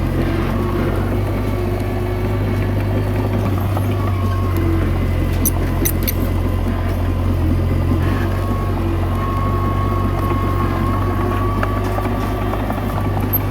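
Komatsu D21A bulldozer's diesel engine running steadily under working load, with a faint high whine alongside.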